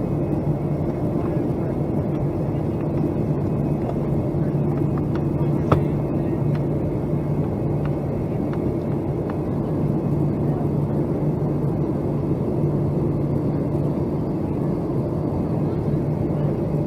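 Steady cabin drone of a Boeing 757-200 airliner descending to land: engine and airflow noise with a low hum. A single sharp click sounds about six seconds in.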